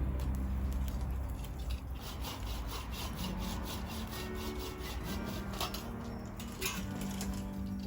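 Rapid, rhythmic scraping strokes, several a second, over soft background music.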